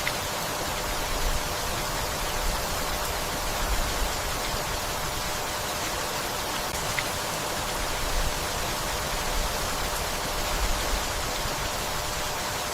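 Steady rainfall, an even hiss. A few soft low thuds rise out of it now and then, and there are a couple of faint sharp drips.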